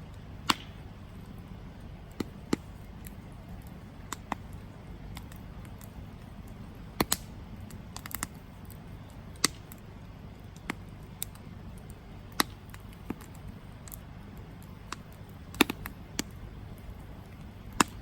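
Wood campfire crackling: irregular sharp pops and snaps, about one a second, over a low steady rumble of the fire.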